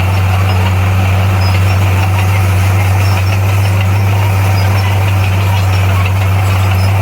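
Bulldozer's diesel engine running steadily: a loud, low hum that holds the same pitch throughout.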